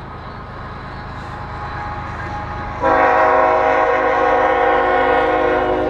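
Train passing, a low rumble growing louder, then the train's horn sounding about three seconds in: one long blast, a chord of several steady tones held to the end.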